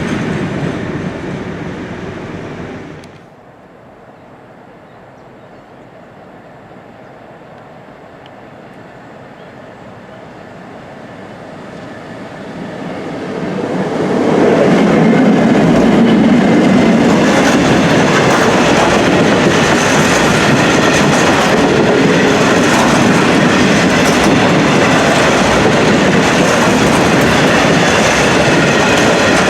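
A train running past on the line. Loud running noise drops away sharply about three seconds in, then a train's sound builds over several seconds and stays loud and steady from about halfway on.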